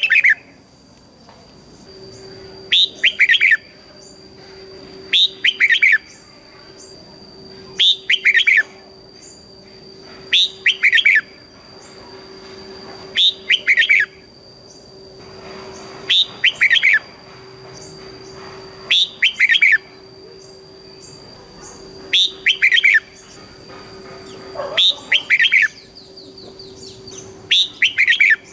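Red-whiskered bulbul singing short, loud song phrases, about one every two and a half to three seconds, each a quick doubled run of notes. A faint steady hum runs underneath.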